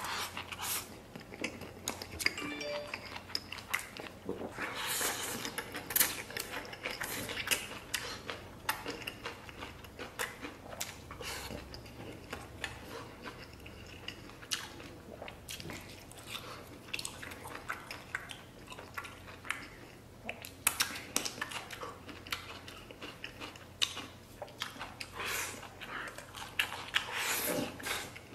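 Close-miked mouth sounds of eating: chewing and lip smacking in a steady run of short wet clicks as he works through chewy, rubbery stir-fried octopus with rice.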